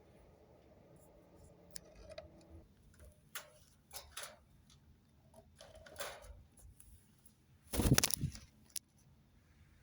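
Scattered small clicks and scratchy taps, with a louder rustling knock about eight seconds in, from a pet rose-ringed parakeet moving about and working with its beak and claws.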